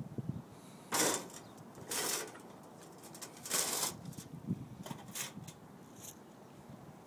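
Sheet-metal flashing being worked: three short rasping noises about a second in, two seconds in and three and a half seconds in, with lighter clicks between.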